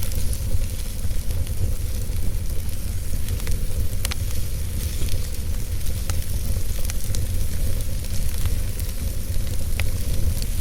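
Wood fire burning in a fireplace: a steady low rumble and hiss of the flames with scattered crackles and pops, the sharpest a few seconds in and near the end.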